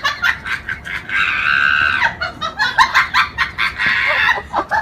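A rapid string of short, high animal calls, with one longer harsh call about a second in.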